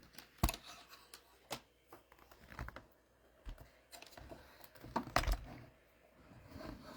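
Irregular clicks and knocks of a laptop being moved into place and its keys tapped.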